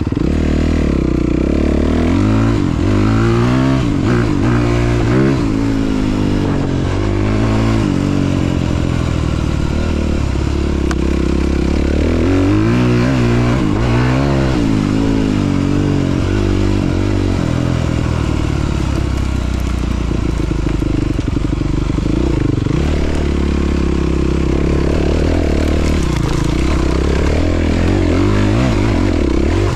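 Honda CRF300RX's single-cylinder four-stroke engine under way off-road, revving up and dropping back again and again as the throttle is worked, then running more steadily in the second half.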